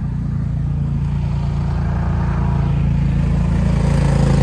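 An engine running steadily with a low hum, growing slightly louder toward the end.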